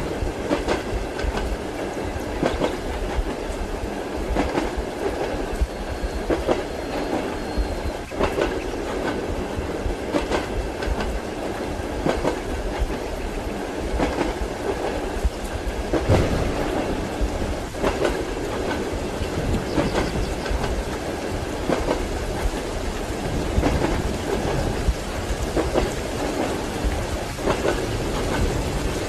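Train wheels clacking over rail joints, about one knock every two seconds, over the steady rumble of a moving railway carriage heard from inside the compartment.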